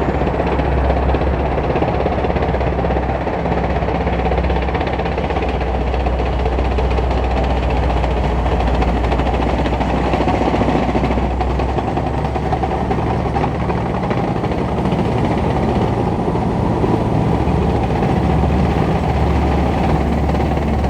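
Type 10 main battle tanks driving past on a road: the steady running of the V8 diesel engine over the continuous clatter of the steel tracks.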